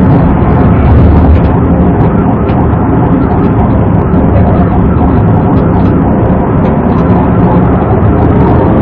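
Police patrol car's engine and road noise, loud and steady, picked up by the dashcam.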